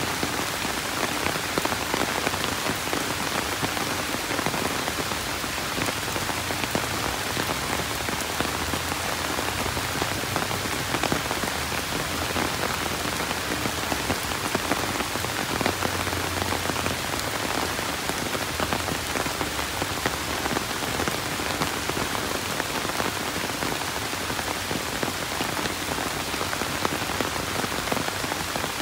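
Steady rain falling on hard surfaces, a dense, even patter of countless drops.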